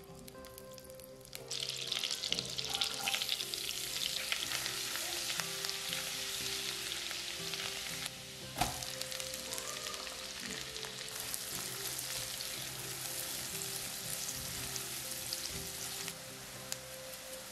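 Minced garlic sizzling in melted butter and oil in a nonstick wok. The sizzling starts suddenly about a second and a half in and is stirred with a spatula. There is a single knock against the pan about halfway through, and chopped onion frying with the garlic near the end.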